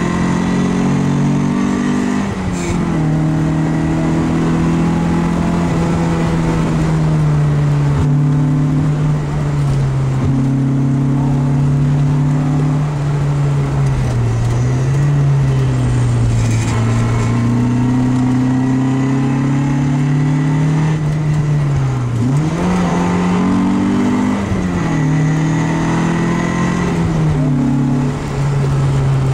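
Opel Kadett C rally car's four-cylinder engine driven hard, heard from inside the cabin. It runs loud at high revs, with its pitch dropping and climbing again several times as the driver changes gear and lifts for corners.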